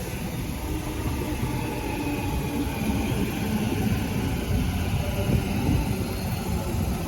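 Train running through the station: a steady rumble with faint whines over it.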